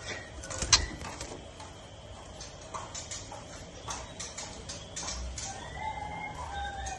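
White-rumped shama (murai batu) calling: a scatter of sharp clicks and short chirps, with a few short whistled notes near the end.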